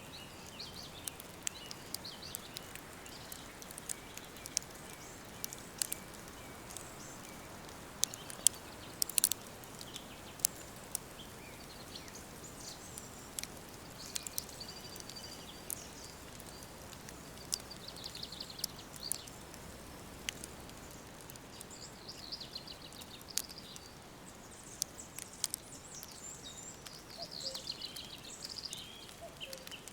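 Songbirds singing warbling, trilling phrases over a steady hiss, with frequent irregular sharp crackles and pops from a wood fire.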